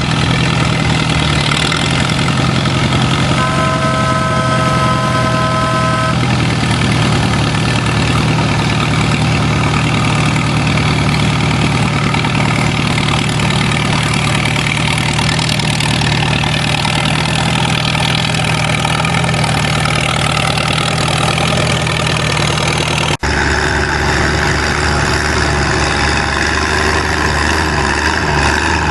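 Antique tractor engine running steadily at a tractor pull. A steady high tone sounds for about two and a half seconds near the start. About 23 seconds in, the sound cuts abruptly to a different, deeper engine note.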